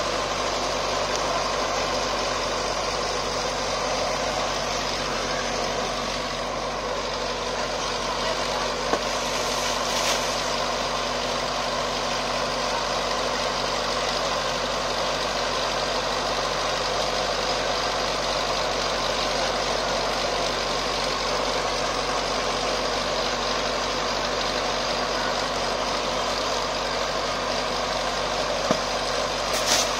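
Sonalika 60 hp tractor's diesel engine running steadily at an even speed.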